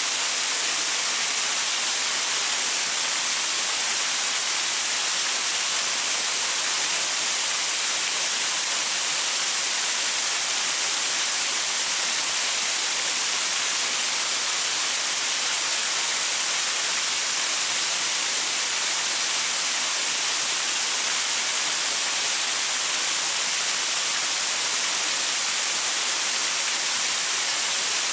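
Waterfall splashing over rocks: a steady, unbroken rush of water, mostly high-pitched hiss.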